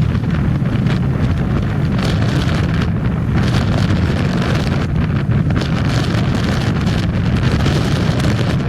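Wind buffeting the microphone on a moving motorcycle: a steady low rush, with the bike's engine and road noise beneath it.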